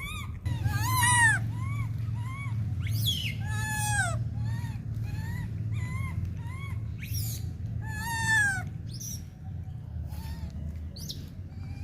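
A run of short, high-pitched animal cries, each rising and falling in pitch, coming every half second or so over a steady low hum. They thin out in the last few seconds.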